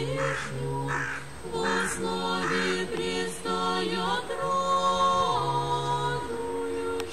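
Russian Orthodox liturgical chant sung a cappella by a church choir in several parts, with chords held and changed every half second or so.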